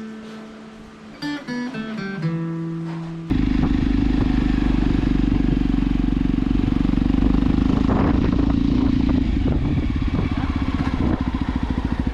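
Acoustic guitar music for about three seconds, then an abrupt cut to a motorcycle engine running loudly. Near the end its beat breaks into even, distinct pulses, as at idle.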